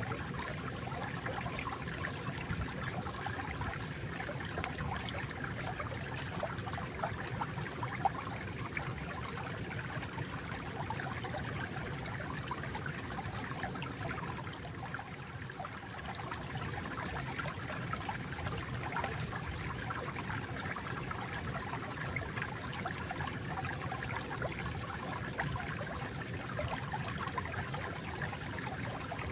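Water flowing and trickling steadily, a continuous bubbling stream sound.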